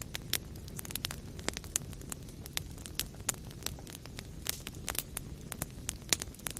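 Wood fire in a fireplace crackling, with irregular sharp pops several times a second over a low, steady rumble of the flames.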